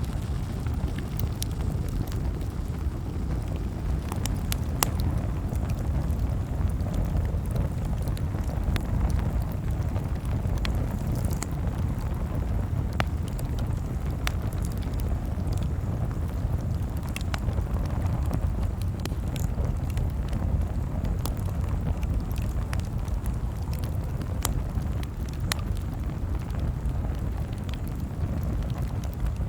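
Campfire crackling: irregular sharp pops and snaps, a few every second or so, over a steady low rumble.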